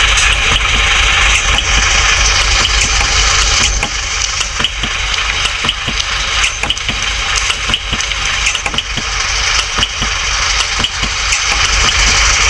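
Vehicle engine running steadily under a strong hiss. From about four seconds in the sound drops a little and irregular clicks and rattles come through, then it rises again near the end.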